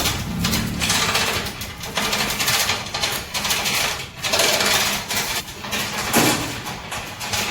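Chain hoist's chain rattling in fast metallic surges as a transformer core is lowered into its tank.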